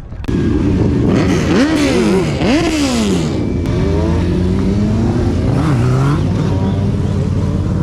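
A car engine revved hard in several quick blips, its pitch jumping up and falling back, then running at a steadier, lower engine speed with one more small rev.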